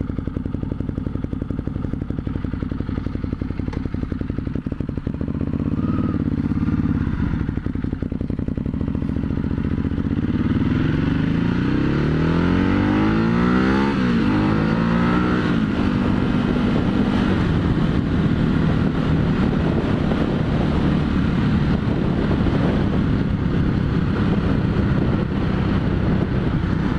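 Motorcycle engine under way on the road. Its revs climb and drop back with a gear change about halfway through, then it settles to a steady cruise.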